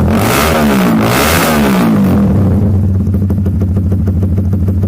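Honda Supra GTR's single-cylinder engine through a Proliner aftermarket exhaust, revved hard twice in quick succession, then dropping back to a steady idle about two seconds in.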